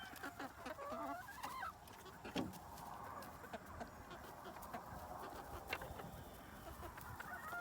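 Chickens clucking softly, with a few short calls in the first couple of seconds, then quieter clucks and faint scattered ticks.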